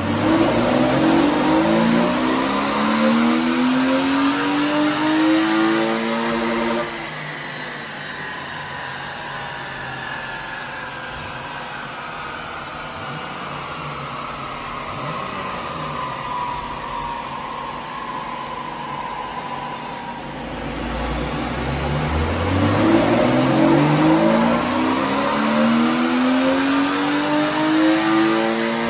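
BMW E36 3 Series with a cammed US-spec M3 straight-six at full throttle on a rolling-road dyno: the engine note climbs steadily in pitch for about seven seconds, then cuts off sharply as the throttle closes. A whine falls slowly in pitch while the wheels and rollers coast down, and from about twenty seconds in a second full-throttle pull climbs again and cuts off near the end.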